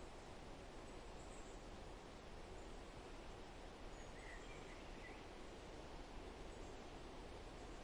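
Quiet forest ambience: a steady soft hiss with a few short, faint bird chirps scattered through it, the clearest a little past the middle.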